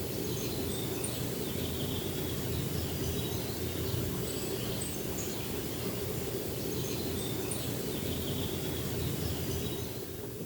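Steady rain falling, with a few faint high bird chirps now and then.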